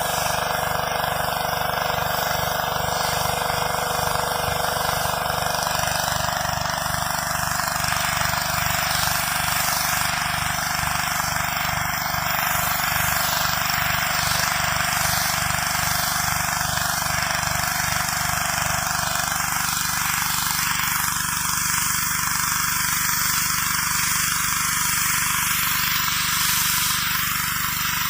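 Gas-engine pressure washer running steadily under a dense hiss of high-pressure water spray on concrete; the spray's tone shifts a little about two thirds through.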